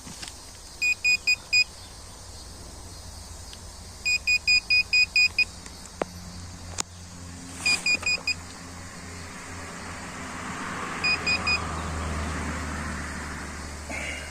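Metal detector beeping in quick bursts of short, high beeps (four, then eight, then four, then four) as it is swept over a target, which turns out to be scrap iron: a nail and a piece of wire. A few sharp clicks sound midway, and rustling grows toward the end.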